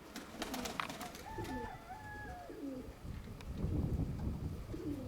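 Domestic pigeons cooing repeatedly, with a few sharp clicks in the first second. A gust of wind rumbles on the microphone around the middle.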